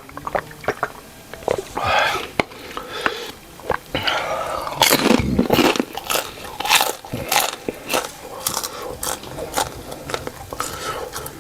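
Close-miked mouth sounds of a person eating: biting and chewing food, with many short, sharp crunches and wet smacks spread irregularly throughout.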